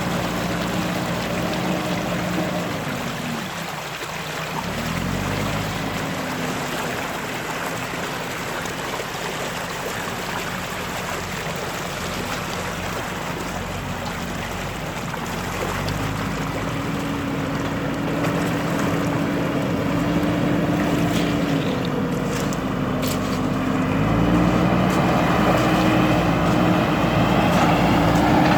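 JCB backhoe loader's diesel engine running under work, dropping in revs briefly a few seconds in, then picking up and rising in two steps later on, getting louder toward the end.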